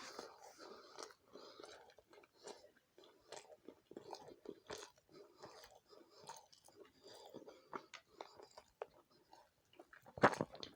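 Close-up chewing of a mouthful of chicken curry with rice and roti: an irregular run of wet mouth clicks and smacks, with one louder sharp bite near the end.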